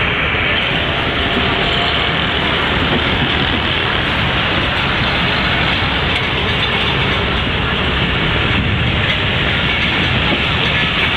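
Passenger train in motion, heard from an open carriage window: a steady rush of wheel-on-rail and wind noise.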